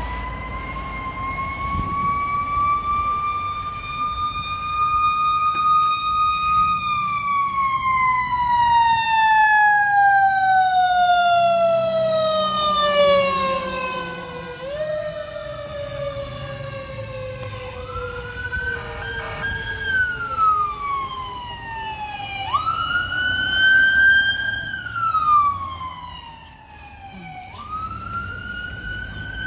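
Fire apparatus siren winding up to a high wail, holding, then coasting slowly down in pitch over several seconds, wound back up again about four times. It has the shape of a mechanical rotor siren being re-engaged. A truck engine rumbles low underneath.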